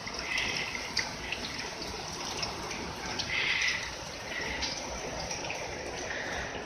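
Heavy rain falling steadily, a constant hiss of downpour with drops splashing close by; the hiss swells louder a few times, most strongly a little past the middle.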